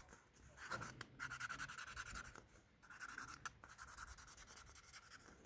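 Felt-tip pen scribbling on a cardboard toilet roll tube: faint, rapid back-and-forth scratching strokes in two runs, with a short pause in the middle.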